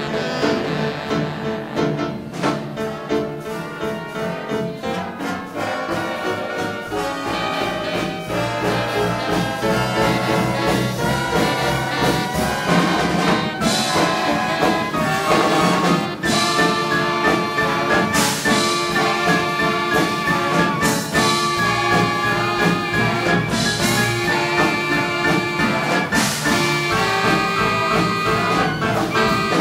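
A big band playing hot swing-era jazz, with the brass section of trumpets and trombones leading over the rhythm section.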